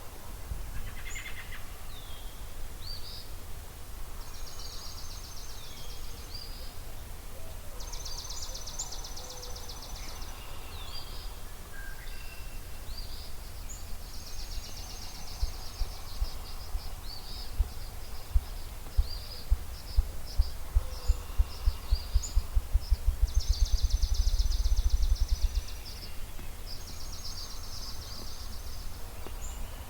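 Ruffed grouse drumming: low, deep thumps begin about halfway through, slowly at first, then speed up into a rapid flutter that stops abruptly about ten seconds later. Several songbirds sing high trills throughout.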